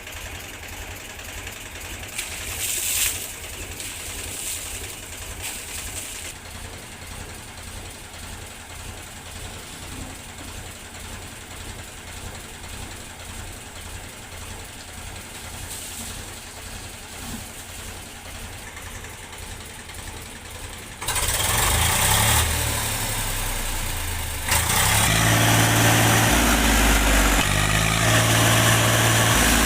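Tractor diesel engine idling with an even low beat, with a few short hisses in the first several seconds. About 21 s in it suddenly gets much louder, and louder again about 24 s in, the engine running harder.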